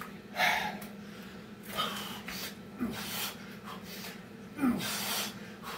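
Hard, heavy breathing of a man in the middle of a set of Navy SEAL burpees: quick noisy breaths every second or so, a few ending in short falling grunts, over a steady low hum.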